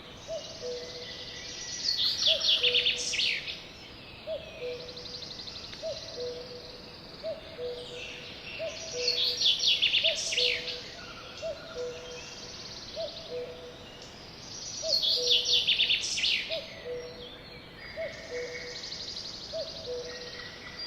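Songbird singing: three loud, high trilled phrases about six to seven seconds apart. Beneath them, a steady two-note low call repeats about every second and a half.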